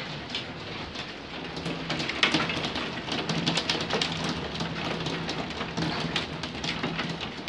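Heavy rain and large hailstones pelting down: a dense hiss packed with sharp clicks and clatters of stones striking hard surfaces. A faint steady low hum runs underneath from about a second and a half in.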